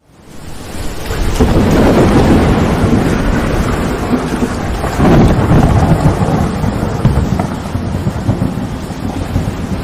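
Steady rain with rolling thunder. It fades in over the first second, and the thunder swells twice, about 2 s and 5 s in.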